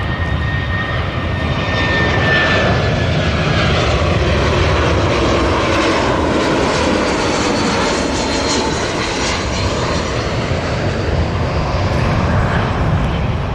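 Engines of a military transport plane: a steady, loud engine noise that swells about two seconds in, with whining tones that drift slowly in pitch.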